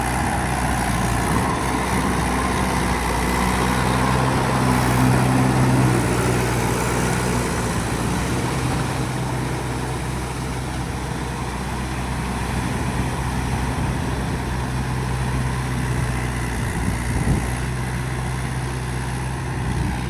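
Mahindra 585 tractor's diesel engine running steadily, a little louder for a couple of seconds about four seconds in.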